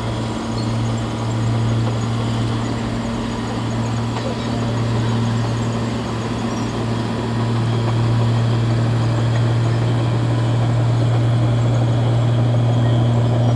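Heavy diesel engine of an earthmoving machine running steadily with a low hum, growing slightly louder toward the end.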